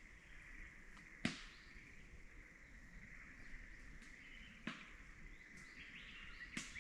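Faint outdoor ambience: a steady high hum, with three sharp clicks or snaps, the loudest about a second in.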